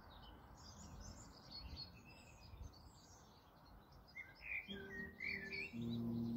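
Small songbirds chirping and trilling, many short calls overlapping, busiest about four to five seconds in. Soft background music with long held notes comes in near the end.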